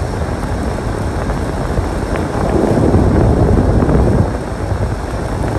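Wind rumbling on the microphone in a snowstorm, with a stronger gust swelling up about halfway through and dropping off sharply a couple of seconds later.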